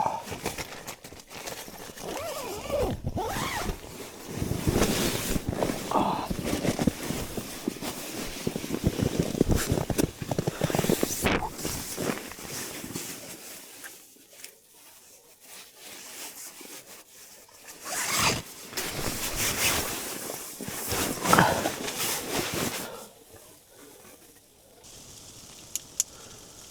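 Irregular rustling, scraping and crunching of handling sounds, with a quieter stretch about halfway through.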